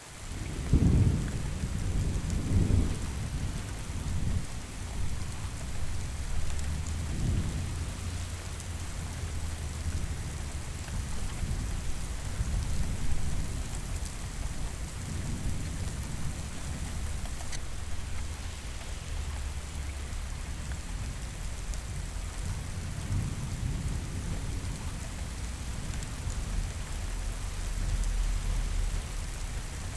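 Steady rain with rolling thunder: a thunderclap breaks about a second in and rumbles on for several seconds, followed by further low rolls of thunder under the rain.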